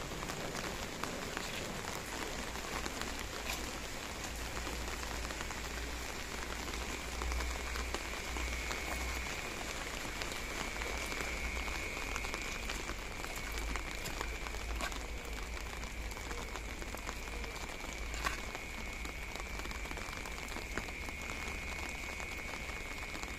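Light rain falling steadily, a dense patter of small drops ticking on the ground and surfaces around. A faint, steady high-pitched tone comes in about seven seconds in.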